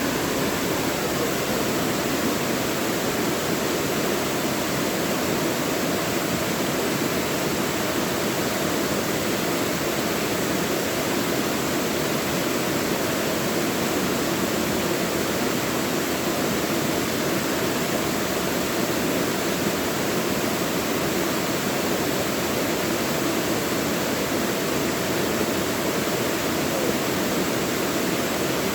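Mountain valley stream flowing, a steady, even rush of running water.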